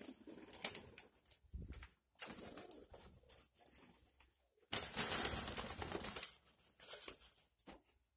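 Nikolaev pigeons' wings flapping in several rough bursts, the loudest about five to six seconds in.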